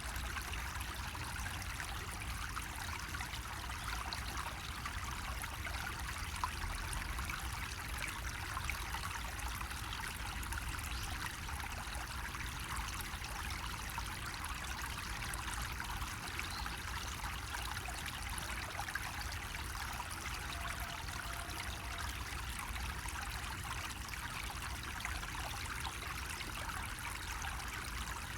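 Water running steadily from a bamboo spout, a continuous trickling splash with no pauses, over a low steady rumble.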